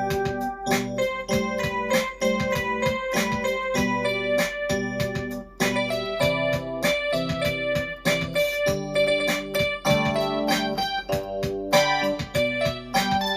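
Electric-piano voice on a home keyboard playing a pop song's chords and melody over the keyboard's built-in funk-pop drum rhythm, which keeps an even beat.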